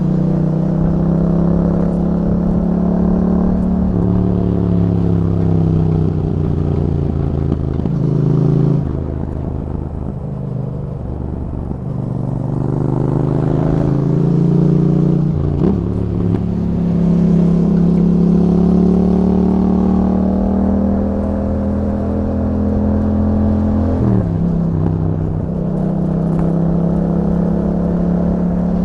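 2021 Yamaha MT-07's parallel-twin engine running through an Akrapovic exhaust with a dB killer, heard from on the bike while riding. The engine note steps up and down several times with gear changes and throttle, easing off and going quieter for a few seconds about a third of the way in before pulling hard again.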